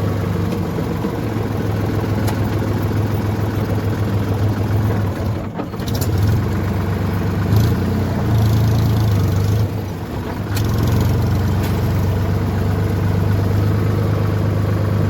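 Tractor's diesel engine running steadily, with brief dips in level about five and ten seconds in.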